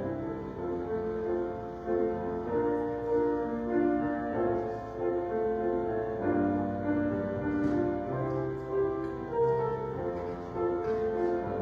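Slow instrumental keyboard music with held chords moving every second or so over a sustained bass line.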